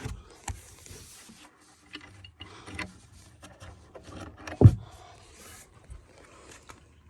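Scattered clicks and knocks of tools and metal parts being handled while a car battery is taken out of a trunk. One louder thump comes a little past halfway.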